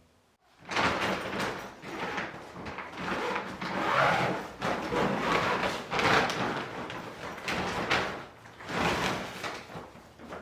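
Christmas tree being set up: rustling and scraping in repeated surges every second or two, fading near the end.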